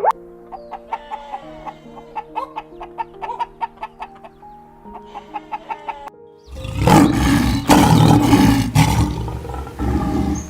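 Soft background music with plucked notes; about six seconds in, a loud, harsh animal call cuts in and lasts about three and a half seconds.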